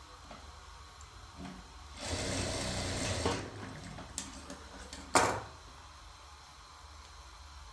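Electric sewing machine running in one short run of about a second, then stopping. A couple of clicks follow; the second, about five seconds in, is the loudest sound.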